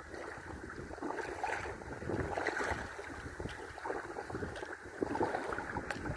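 Water splashing and lapping irregularly against a kayak, with wind buffeting the microphone.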